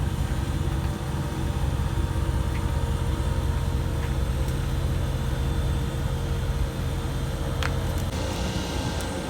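A vehicle engine running steadily: a low, even hum, with a couple of faint clicks near the end.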